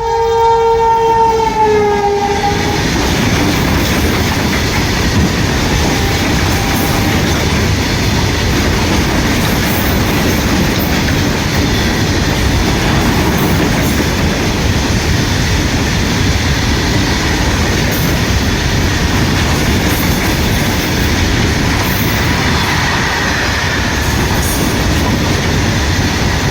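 Goods train passing. Its horn sounds during the first two seconds or so, dropping slightly in pitch, and then comes the steady rumble and clickety-clack of the freight wagons rolling by.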